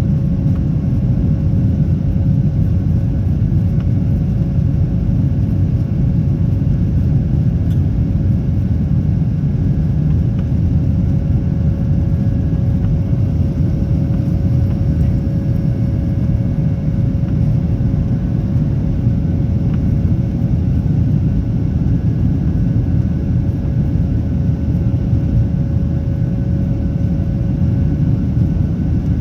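Inside the cabin of a Boeing 737-800, its CFM56-7B jet engines and the airflow make a steady, loud low rumble with one steady mid-pitched tone over it.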